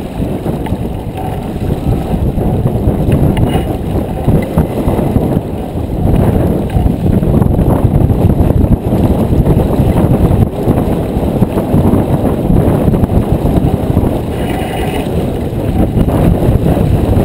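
Wind buffeting the microphone aboard a J24 sailboat under sail: a loud, gusting low rumble that swells from about six seconds in.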